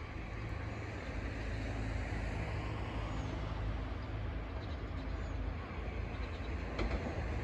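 Electric train approaching in the distance: a steady low rumble and hiss that slowly grows louder.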